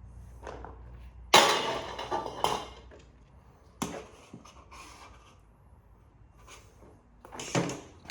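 Metal parts of a dismantled printer knocking and clattering as they are handled, with one loud clank about a second and a half in and a few smaller knocks after.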